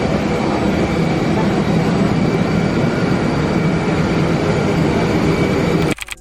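Steady vehicle noise, strongest in the low range, which cuts off suddenly near the end.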